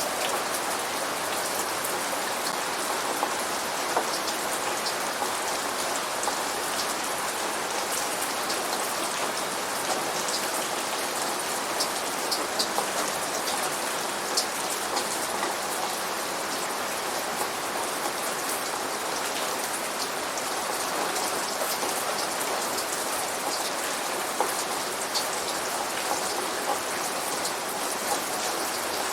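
Steady rain falling, with scattered sharper drop hits on a surface.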